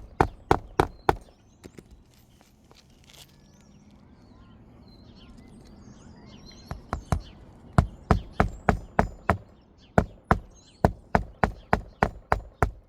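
Hammer driving roofing nails through an asphalt shingle: a quick run of sharp blows, three or four a second, that stops about a second in, then starts again after about five seconds and keeps going in an even run to the end.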